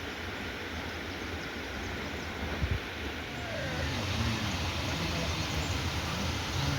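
Steady heavy rain, a continuous hiss, with a single knock about two and a half seconds in and faint wavering calls in the second half.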